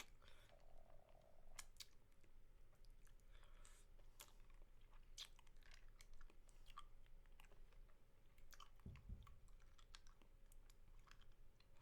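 Faint, close-miked wet mouth sounds from licking and sucking a spicy mango lollipop: scattered soft clicks and smacks, with one low thump about nine seconds in.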